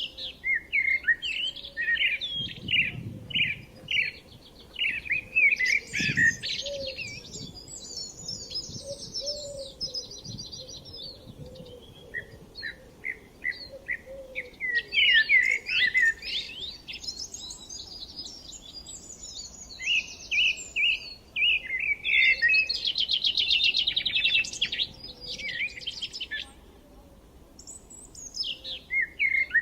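Songbirds singing in bouts of quick chirps and fast, rattling trills, with short pauses of a few seconds between the phrases.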